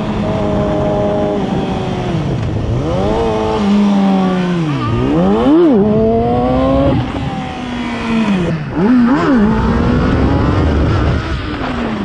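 600cc inline-four sport bike engine being ridden hard. Its revs climb and drop steeply several times in the middle of the stretch, then run on more evenly.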